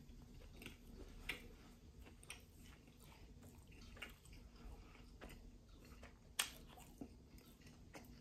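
Faint chewing of a mouthful of crispy fried chicken sandwich: soft, irregular mouth clicks and small crunches, with one sharper click about six and a half seconds in.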